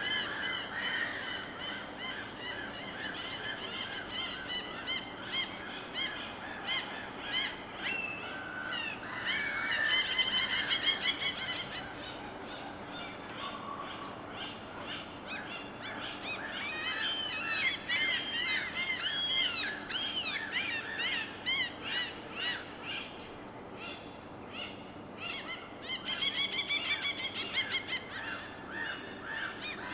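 Birds calling over a steady background wash: runs of quick, repeated pitched calls, with busier flurries about a third of the way in, past the middle, and near the end.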